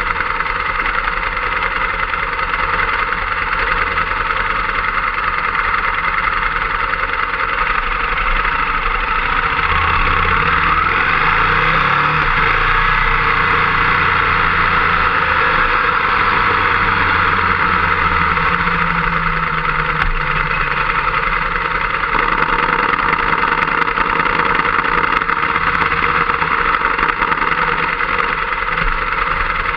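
Motorcycle engine running at low revs, with wind rushing over the fork-mounted camera's microphone. The engine grows louder through the middle stretch, then eases off.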